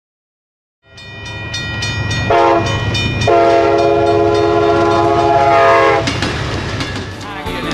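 Amtrak passenger train led by a GE Genesis diesel locomotive passing close by, its engine and wheels rumbling. Its multi-tone air horn sounds one short blast, then a long one of about three seconds. The wheels then click over the rail joints as the cars go by, and guitar music comes in near the end.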